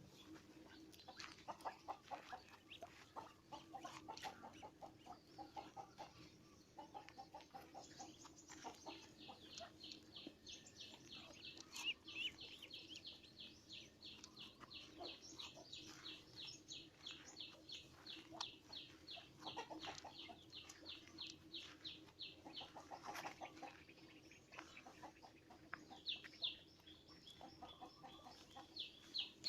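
Domestic fowl calling: soft low clucking at first, then a long run of high, evenly spaced peeps, a few each second, that pause briefly and start again near the end.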